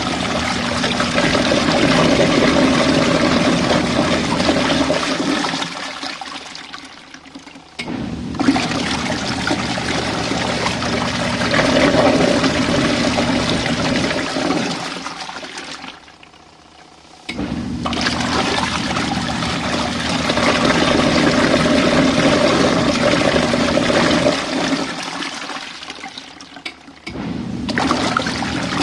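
Compact RV washing machine churning water in its tub while rinsing out suds, its motor humming under the sloshing. It runs in spells of about seven seconds, falling quiet for a second or two three times before starting again.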